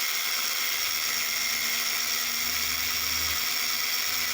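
Small electric slot-car motor running steadily with a high whine, driving the WSR 3D tyre conditioner's roller against the slot-car tyres as they are conditioned with oil. A low hum under the whine from about a second in until past the three-second mark.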